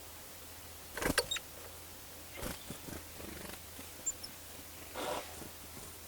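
Small birds, tits, feeding: a few sharp taps, the loudest about a second in, a short rustle near the end, and a brief high chip about four seconds in.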